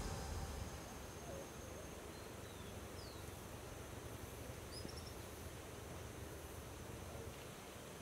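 Faint outdoor ambience: a steady low hiss with a few short, high bird chirps, one of them a quick downward sweep about three seconds in.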